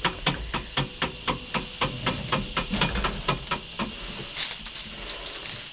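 Rapid, even clicking or tapping inside a tractor cab, about four clicks a second, which fades and becomes irregular a little past halfway.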